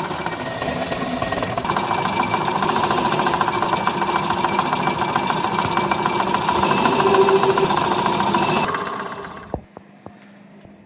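Dense, rapid mechanical rattling from metalworking on a truck axle. It stops about nine seconds in, leaving only a few faint clicks.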